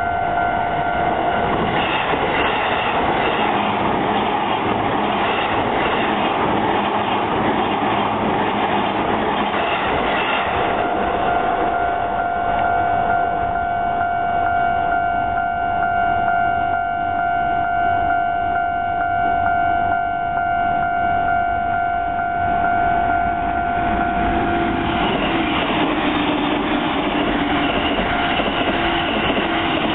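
Trains running through a Japanese railway level crossing, wheels rattling over the rails, with a steady tone, typical of the crossing's warning alarm, that drops out for several seconds early and stops about 24 seconds in. A lower tone that falls slightly comes in near the end.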